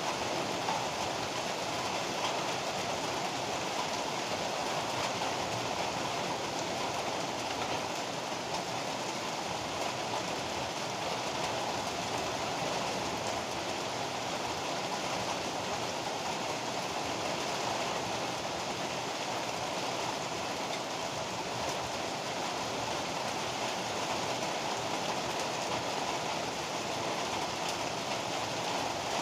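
Heavy rain pouring down steadily in a dense, even rush, with no thunder.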